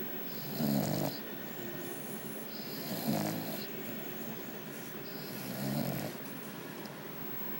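A sleeping dog snoring: three snores about two and a half seconds apart.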